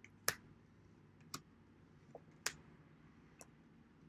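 Four sharp, irregularly spaced clicks over faint room tone.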